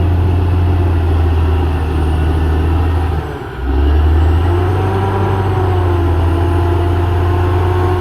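CAT D6R XL bulldozer's diesel engine running steadily with a deep hum. It dips briefly about three and a half seconds in, then comes back at the same level.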